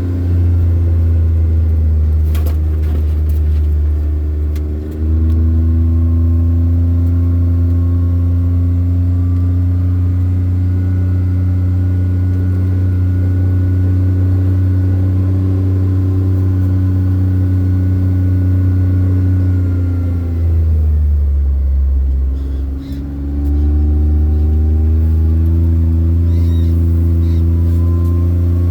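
Motor vehicle's engine running under way, a steady low hum whose pitch holds for long stretches. About twenty seconds in the engine note falls away, then climbs again a few seconds later, with a brief break near the start.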